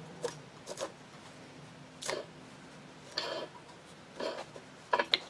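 Light, irregular clicks and taps of hand tools against metal parts while a drill grinder motor is being taken apart: about six short knocks spread over a few seconds, with two sharper clicks close together near the end.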